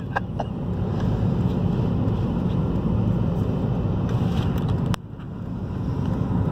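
Steady low rumble of road and engine noise inside a moving car's cabin as it drives slowly through snow. A sharp click about five seconds in, after which the rumble drops and then slowly builds again.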